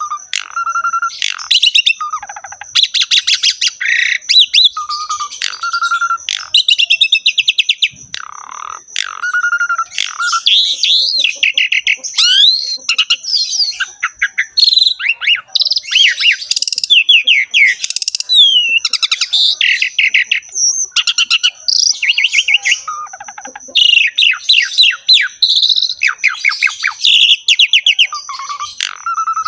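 Asian pied starling singing a long, varied song of rapid rattling trills and chatter mixed with clear whistled notes and gliding phrases, broken by short pauses. A steady high-pitched tone runs underneath.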